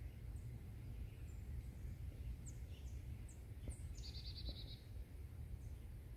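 Outdoor ambience with small birds calling: scattered short high chirps and a quick trill of about eight notes about four seconds in, over a steady low rumble.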